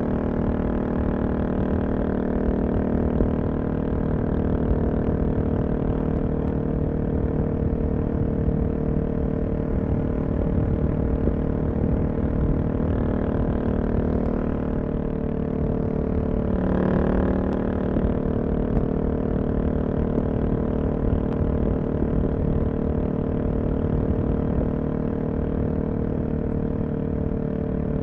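Suzuki DR-Z400SM's single-cylinder four-stroke engine through a full Yoshimura exhaust, running steadily at a near-constant speed while cruising, with a short swell in engine sound about two-thirds of the way through.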